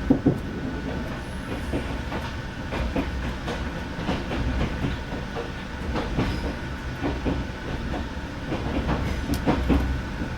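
Sleeper train carriage running at speed: a steady low rumble with the wheels clacking irregularly over rail joints.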